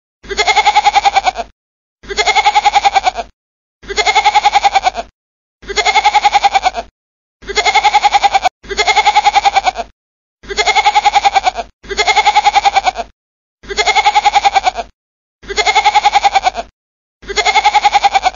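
A goat bleating again and again: about eleven wavering bleats, each a little over a second long, spaced evenly about every 1.7 s. They are identical, the same bleat repeated.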